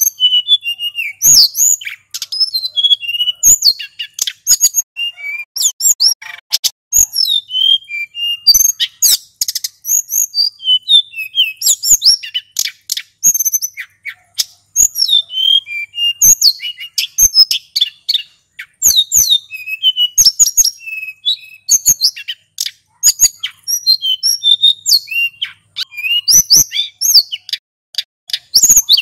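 Male sulingan gunung singing without pause: quick, high whistled phrases and trills strung together, with many sharp clicks throughout.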